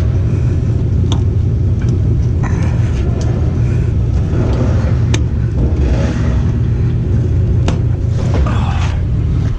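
A truck driving: a steady low rumble, with a few sharp clicks along the way.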